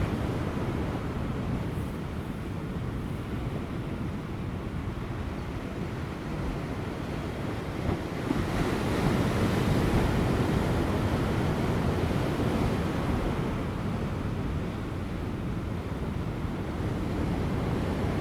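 Large ocean waves breaking on offshore rocks: a continuous heavy surf wash that swells louder about eight seconds in and eases off again a few seconds later.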